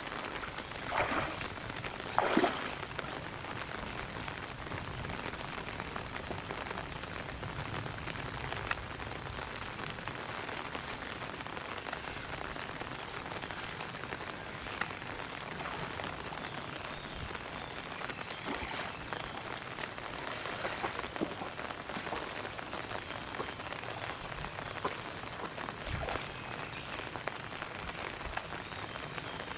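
Steady patter of rain, with two splashes about one and two and a half seconds in as an Indian rhinoceros wades in its pool.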